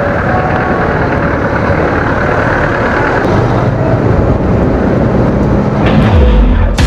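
Motorcycle riding off through town traffic: the engine running and pulling away under wind and road noise on the microphone, its note dropping about six seconds in.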